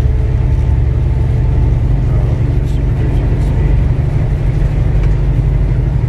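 Semi-truck cab at highway speed: a steady low engine and road drone.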